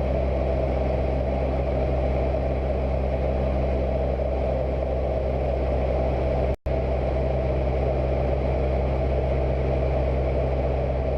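Cessna 172's single piston engine and propeller running at a steady, unchanging drone, with a momentary silent dropout about two-thirds of the way through.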